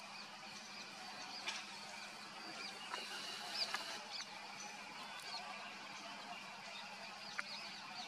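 Many short, high chirps from small songbirds, repeated throughout, over a faint steady hum.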